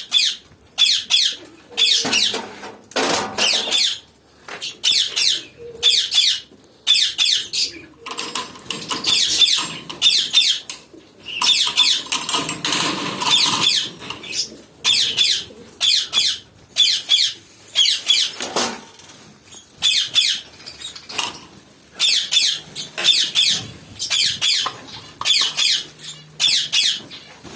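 A flock of aviary birds calling continuously: short, sharp, high squawks and chirps coming several times a second, with a stretch of wing-flutter around the middle.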